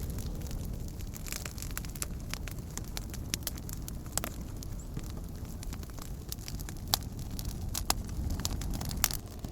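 Wood campfire burning: a steady low rumble of flames with scattered crackles and a few sharper pops.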